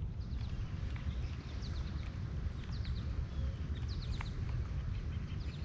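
Small birds chirping in short, quick downward-sliding notes, scattered in little clusters, over a low steady rumble.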